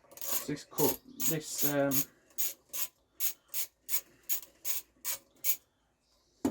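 Ratchet clicking in short even strokes, about three a second, as a screw on a mower engine is undone; the clicking stops about a second before the end.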